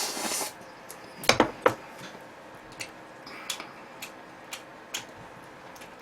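Close-miked eating sounds: a brief breathy blow over hot ramen, a quick burst of three sharp clicks about a second in, then soft chewing clicks roughly twice a second.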